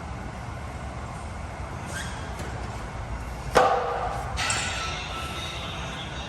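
Gym weights clanking: one sharp metallic clank with a brief ring about three and a half seconds in, with fainter knocks before it, over a steady low rumble.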